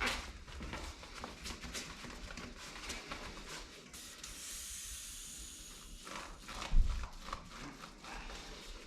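A gravel-bike tyre being worked off its rim by hand, one bead pushed off while the other stays seated. The rubber and the rim scrape and click, a steady hiss runs for about two seconds midway, and there is one loud thump near the end.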